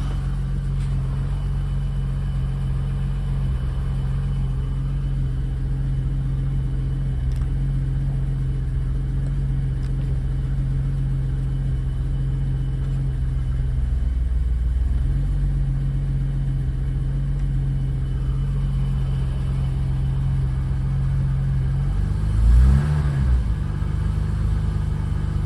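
BMW 535is M30 straight-six idling steadily while still warming up after a cold start. Near the end it gives one quick rev that rises and falls back to idle.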